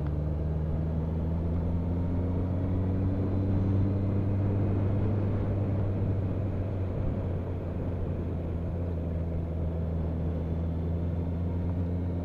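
Motorcycle engine running at road speed, its note rising gently over the first few seconds and then holding steady, under a rush of wind and road noise.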